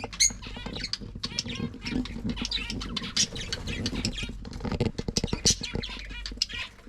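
Small caged pet birds chirping and chattering, with many quick clicks and taps throughout; a sharp high chirp comes just after the start.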